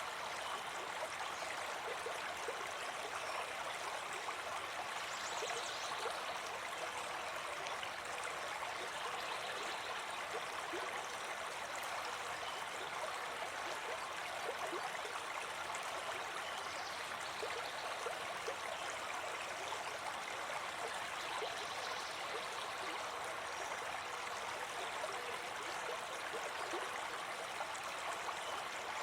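Brook babbling and gurgling steadily over stones.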